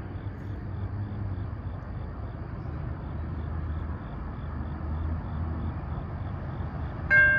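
Low steady rumble of an approaching train, with a faint, quick ticking of about three a second. About seven seconds in, the railroad crossing bell starts ringing loudly as the grade-crossing warning comes on for the train.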